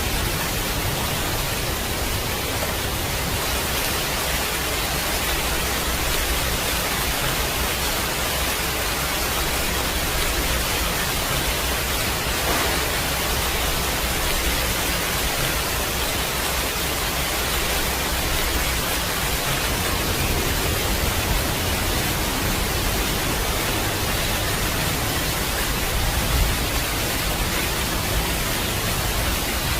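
Steady heavy rain, a dense even hiss, with a low rumble underneath.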